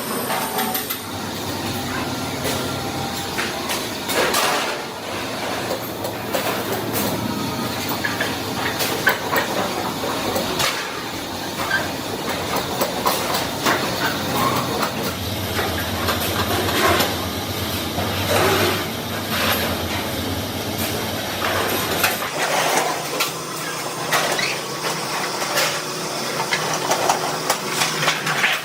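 Sheet-metal workshop noise: irregular knocks and clanks of steel being worked over a steady hiss of machinery, with a low hum that stops about two-thirds of the way through.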